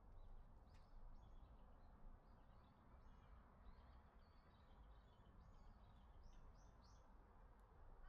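Faint wild birds chirping: a scatter of short high calls, with a quick run of three near the end, over a low steady background rumble.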